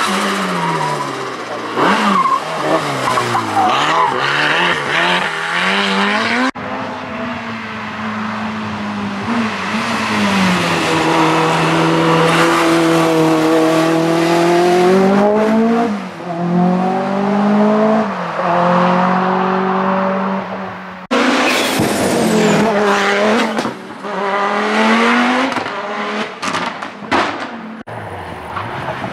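Group B rally car engines at full throttle, the note climbing and dropping through gear changes, in three edited-together passes. The middle pass holds one long run of rising revs and upshifts.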